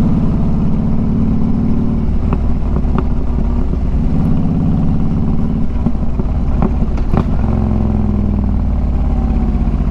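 2013 Harley-Davidson Street Glide's Twin Cam 103 V-twin running at riding speed through Vance & Hines True Dual pipes. It is a steady low rumble whose pitch eases off and picks up a couple of times, with a few brief clicks over it.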